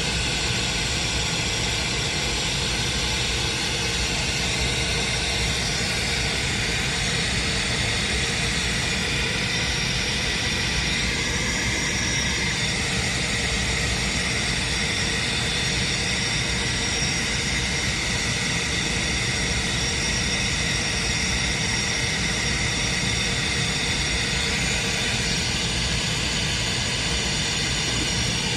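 Steady test noise played loud through a car's audio system while a measurement microphone captures the cabin's frequency response for EQ correction.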